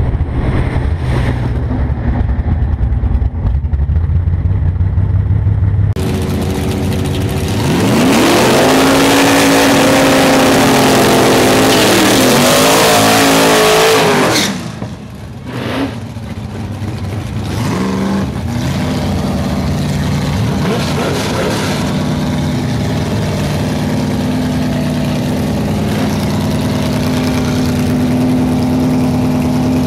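C3 Corvette engine running at low speed, then a loud burnout, the engine revving up and down over the screech of spinning tyres. About halfway the burnout cuts off suddenly, and the engine then idles steadily, with a few blips of the throttle.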